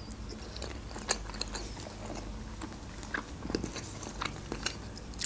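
A mouthful of crab salad being chewed close to the microphone, with scattered small clicks of the mouth and teeth.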